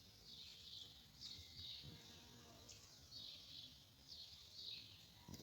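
Birds chirping faintly: short, high chirps repeating about twice a second.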